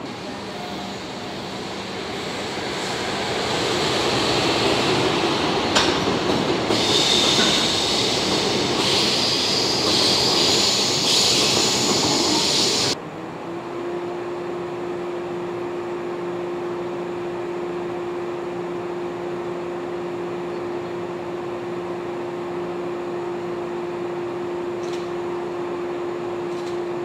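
A JR West 113 series electric train rolls slowly past, its wheels and brakes squealing high as it slows during the first half. About halfway through the sound drops off abruptly, and the stopped train's steady electrical hum is left.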